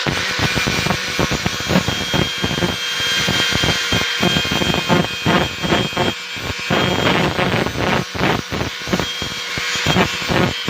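Handheld power tool running and cutting into the steel shell of a refrigerator compressor, its motor note dipping and surging irregularly as it bites and eases off.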